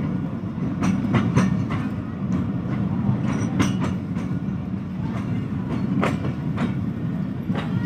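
Passenger train running along the track: a steady low rumble with irregular clacks of the wheels over rail joints.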